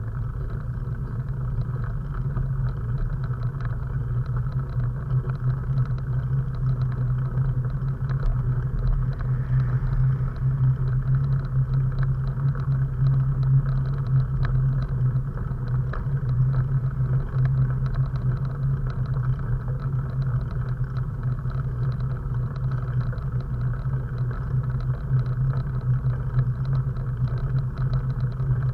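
Steady low rumble of wind and road noise on a camera riding along on a moving bike.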